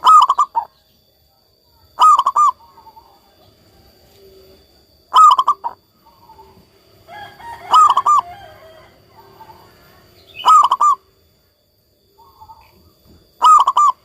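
Zebra dove (perkutut) cooing: six short, loud bursts of its staccato call, coming about every two to three seconds.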